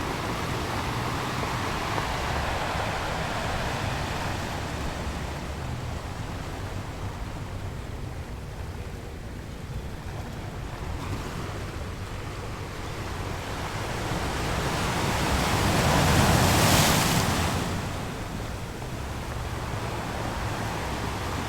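Sea waves breaking on a rocky shore: a steady rushing wash with a low rumble, one wave building to a loud crash about three quarters of the way through and then drawing back.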